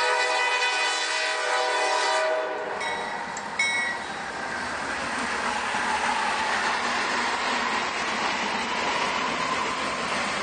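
Norfolk Southern freight locomotive's air horn sounding a held chord, cutting off about two and a half seconds in, followed by a short high tone. Then the steady rail and wheel noise of the freight train rolling past.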